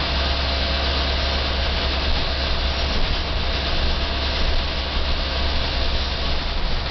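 Volvo B10M Mk II bus's underfloor six-cylinder diesel engine and ZF automatic gearbox running steadily under way, heard from inside the cabin, with a strong constant low hum and road noise.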